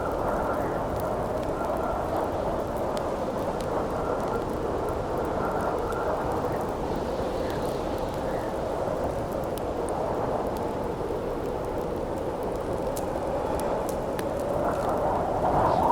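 Wind howling steadily, with a campfire crackling faintly underneath in scattered sharp pops. A gust swells louder near the end.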